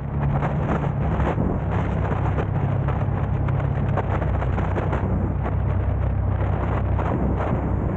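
Wind buffeting the camera's microphone, with short crackles, over a steady low rumble of a car's engine and tyres on the road.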